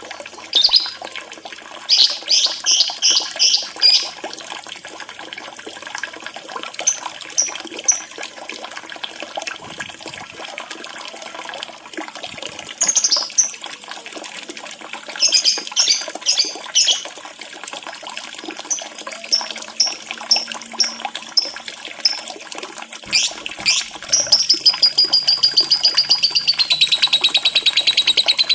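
Lovebird chirping in short clusters of high, sharp notes over the steady trickle of running water. About three-quarters of the way in, a long, fast trill takes over, starting high and sliding slightly lower, louder than the chirps.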